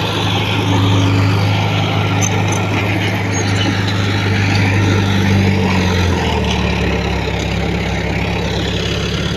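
Diesel engine of heavy earthmoving equipment running steadily, its note dropping slightly about six seconds in.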